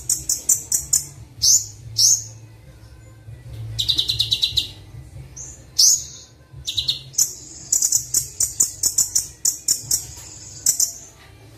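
Kolibri Wulung sunbird singing: a high-pitched, fast chirping song of quick repeated notes in runs of several per second, with short trills and brief pauses between phrases. A steady low hum sits beneath it.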